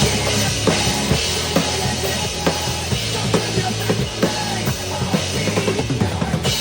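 Drum kit playing a steady rock beat, bass drum and snare striking about twice a second over a bass line.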